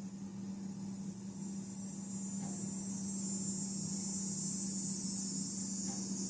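Steady high-pitched insect buzz that swells about two seconds in, over a steady low hum.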